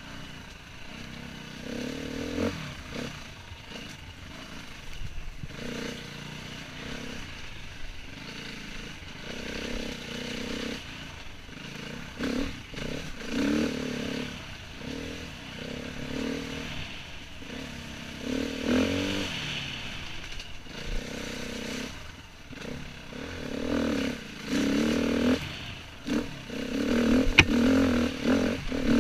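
Enduro dirt bike engine heard from the rider's helmet camera, swelling and dropping as the throttle is opened and closed. It runs harder over the last few seconds, and there is one sharp click near the end.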